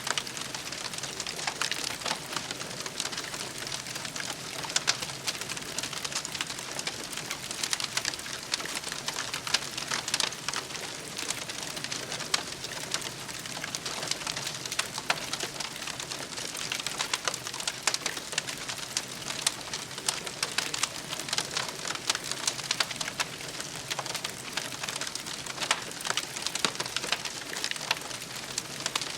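Campfire burning, with dense, steady crackling and popping of the burning wood.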